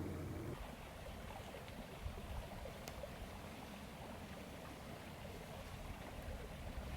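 Faint wind rushing and buffeting against the microphone, an uneven low rumble under a steady hiss.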